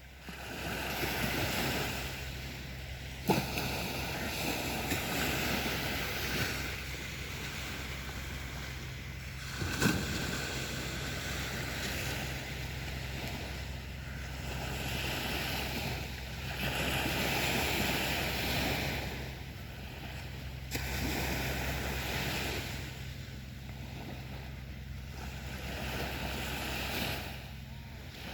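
Sea surf washing onto a beach, the wash swelling and easing every few seconds. Two brief knocks sound, one about three seconds in and another near ten seconds.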